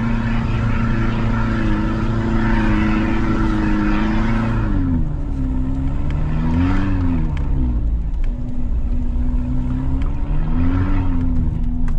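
An off-road 4x4's engine held at high revs with a rushing noise over it, then dropping back about five seconds in. It is then revved briefly up and down twice, once in the middle and once near the end.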